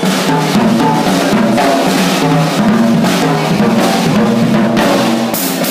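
Instrumental band music: a drum kit keeping a beat over a steady bass line, with no singing.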